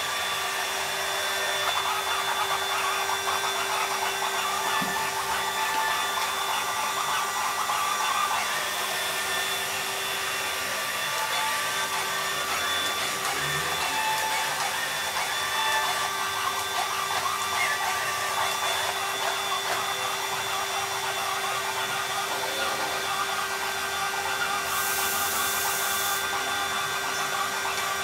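Robotic vacuum cleaner running, its motor giving a steady whirring hum with a constant whine.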